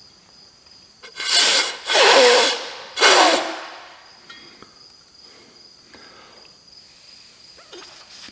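Three short puffs blown by mouth back through a Suburban RV furnace's gas orifice, each a hissing rush of air with a faint whistle, close together.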